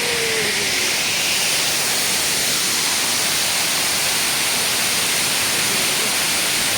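Waterfall: water falling and splashing in a steady, unbroken rushing hiss.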